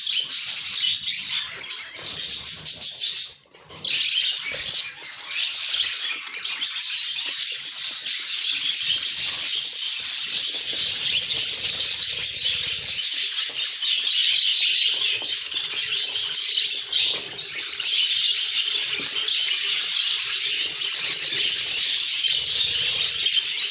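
A flock of budgerigars chattering and chirping continuously, many birds calling at once, with a short lull about three seconds in.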